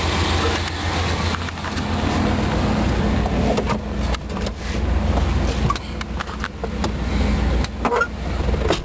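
1990 Chevrolet Suburban's V8 engine idling with a steady low hum, with a few short clicks and knocks of handling over it.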